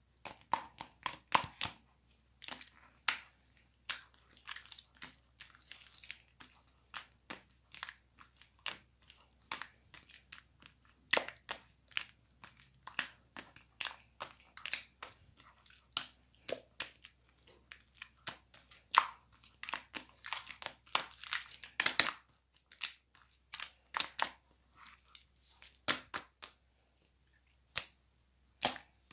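Slime being squeezed and poked by hand, giving a dense, irregular run of sharp little pops and clicks.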